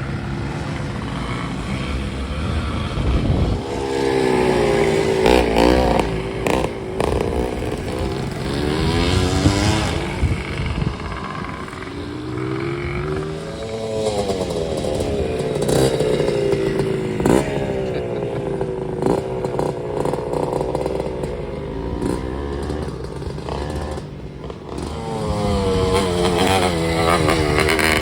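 Classic Bultaco two-stroke motorcycle engines revving up and down over and over as they are ridden, with a few sharp knocks along the way.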